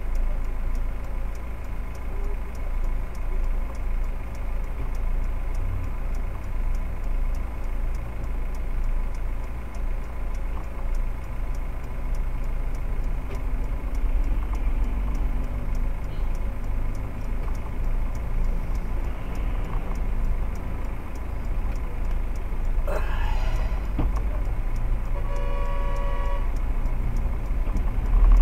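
Car engine idling with a steady low rumble heard from inside a stopped car, with a car horn blast of about a second a couple of seconds before the end. A thud comes at the very end.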